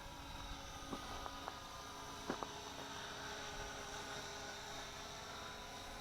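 Syma X8C quadcopter's motors heard faintly in flight as a steady hum of several high whining tones that drift a little in pitch, with a few faint short clicks about a second in and a close pair about two seconds in.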